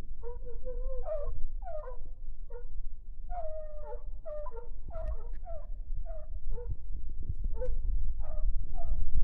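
Hunting dogs baying over and over while they chase a rabbit on its trail: a string of drawn-out, yelping calls about one to two a second, over a low rumble.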